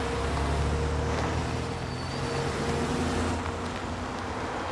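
A car engine runs with a low, steady hum as a sedan drives off; the hum eases after about three seconds.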